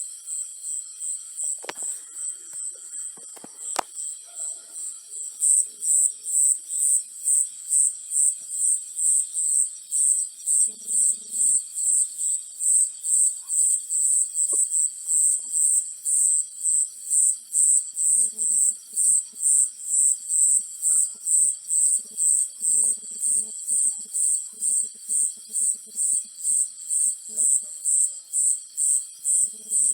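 An insect, such as a cricket, chirps in a steady rhythm of high-pitched pulses, about two a second, and gets louder about five seconds in. A lower pulsing call comes and goes, and a few sharp clicks sound in the first few seconds.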